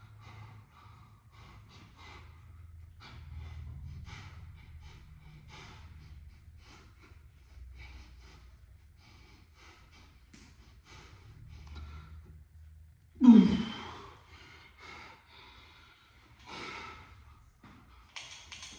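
A man breathing hard and sighing as he recovers from an exercise set, short breaths following one another over a steady low hum, with one loud groaning exhale about thirteen seconds in.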